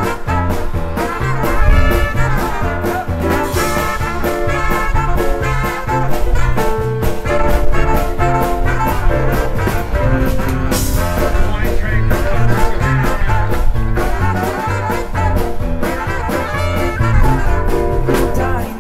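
Swing music with brass and a steady bass beat.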